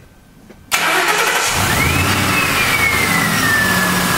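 The Ford 4.6-litre V8 of a 2000 Mercury Grand Marquis starting up suddenly about three quarters of a second in and running steadily, with a high whine that rises in pitch and then slowly falls. The engine is being started to bleed a freshly refilled power steering system.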